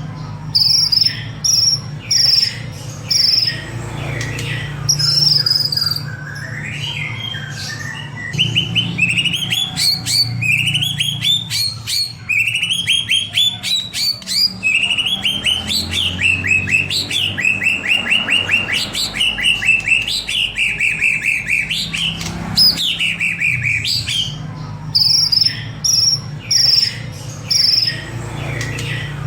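White-rumped shama (murai batu) singing continuously in full, varied song: clear whistled phrases, runs of repeated short high notes near the start and end, and rapid trills with falling whistles in the middle. A steady low hum runs underneath.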